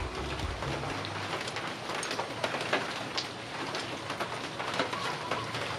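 Steady rain-like hiss with a few light clicks of a steel bearing plate being handled and set onto the engine's aluminium crankcase.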